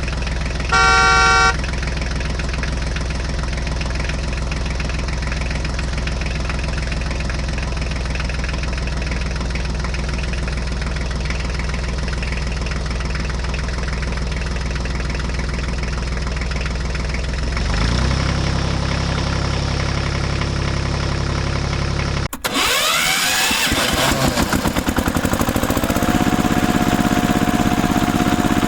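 Tractor engine running steadily, with a short horn beep about a second in. The engine note shifts near the middle, then after a sudden break the pitch sweeps upward like revving and settles into a steady higher tone.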